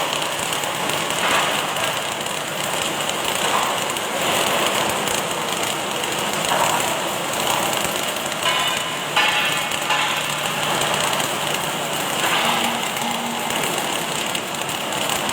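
Automatic welding machine at work: the steady crackling hiss of the welding arc over industrial machine noise, with a few short rattling bursts.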